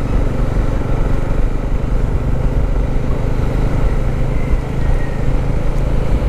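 Motorcycle engine running at a steady pace while riding, with a constant rush of road and wind noise.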